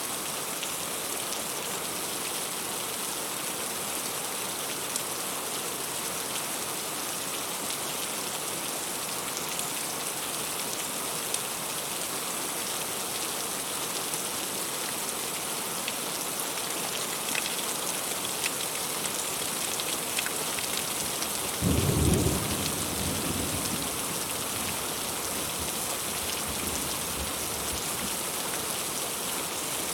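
Heavy rain falling steadily on fruit and leaves, with scattered drop ticks. About two-thirds of the way through, a sudden low rumble of thunder comes in as the loudest sound and fades away over a few seconds.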